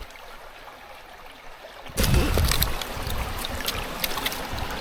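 Shallow stream water running and trickling over rocks. About two seconds in it becomes suddenly louder and closer, with small clicks and a low rumble.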